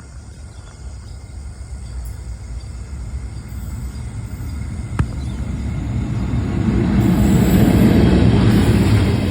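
Freight train approaching, its low rumble growing steadily louder until the wheels and wagons come close near the end. A single sharp click about halfway through.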